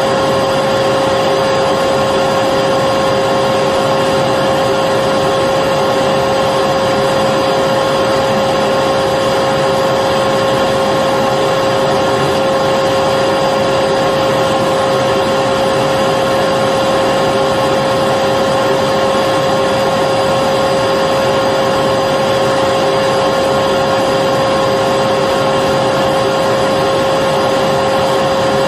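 Vacuum cleaner running steadily with an even whine and rushing air, the pitch unchanging throughout, played as white noise to lull a baby to sleep.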